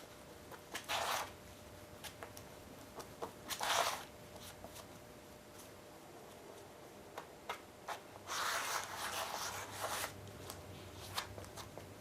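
Plastic spreader scraping and smearing cold, stiff body filler with hardener on a mixing board: short scrapes about a second in and near four seconds, a longer run of scraping from about eight to ten seconds, with light clicks and taps between.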